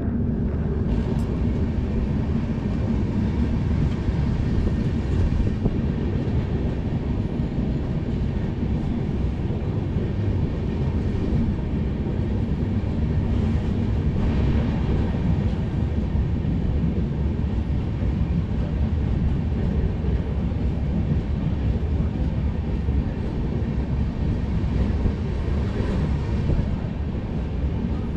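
Shan-e-Punjab Express train running at speed, a steady rumble of wheels on track that holds without a break.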